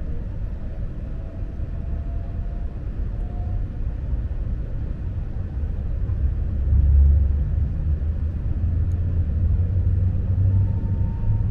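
Lastochka electric train running, heard from inside the carriage: a steady low rumble that swells about seven seconds in. A faint whine rises slightly at the start, and a faint steady tone comes in near the end.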